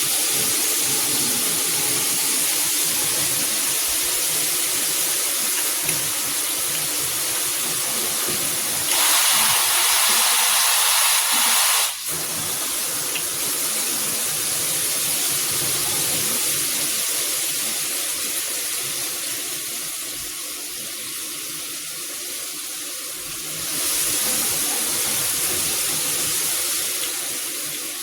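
Water spraying hard from a high-pressure handheld shower head, a steady hiss that grows louder and brighter twice: about nine seconds in, until a sudden break a few seconds later, and again near the end.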